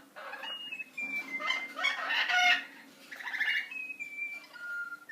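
Small pet parrots chattering: raspy squawks mixed with clear whistled notes, in several short bursts one after another.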